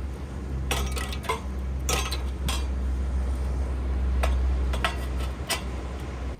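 Cutlery clinking against dishes, in a handful of short sharp clinks, over a steady low rumble.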